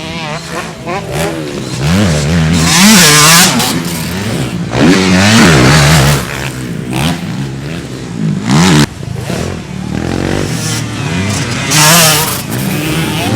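Motocross bike engines revving, their pitch climbing and dropping over and over as the bikes run the track, with louder surges as bikes come close.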